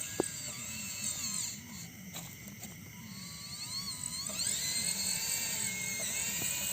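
Small electric motors of a homemade scale-model Kubota DC-93 combine harvester running with a high whine whose pitch wanders up and down, growing louder a little past halfway. A sharp click sounds just after the start.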